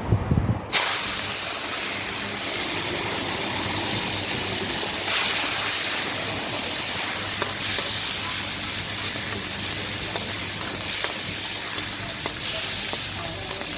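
Food sizzling and frying in a hot pan, a steady crackling hiss that starts abruptly just under a second in.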